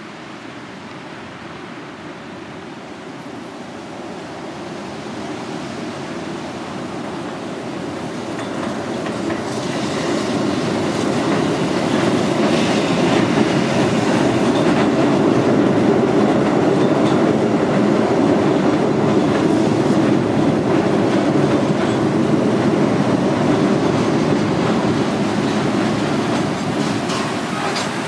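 R42 subway train approaching and running past, its noise building steadily for about twelve seconds, then holding loud and close for most of the rest.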